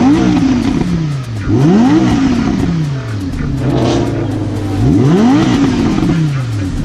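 An engine revved in quick blips, three times, the pitch jumping up and falling straight back to a steady idle between them.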